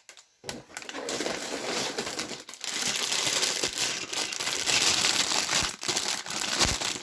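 Plastic LEGO parts bags crinkling and rustling as they are handled and pulled out of the box, a continuous crackly rustle with a few sharper clicks.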